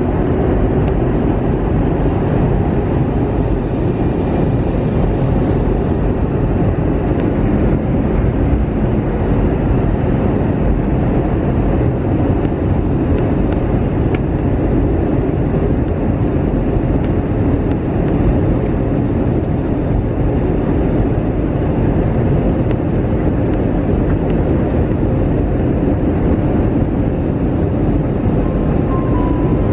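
Steady, loud cabin noise inside an Airbus A320-200 in flight: engine and airflow rumble with no change in level.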